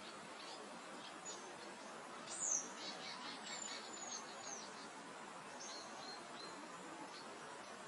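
Birds singing over a steady soft hiss of meadow wind. About two and a half seconds in comes a loud, high, downward-sweeping call, followed by a quick run of high chirps and whistles, and a few short notes later.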